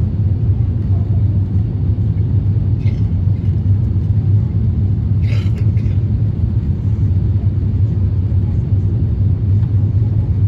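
Steady, low cabin drone inside an Airbus A350-1000, from its Rolls-Royce Trent XWB engines and the airflow. A brief higher-pitched sound cuts in about five seconds in.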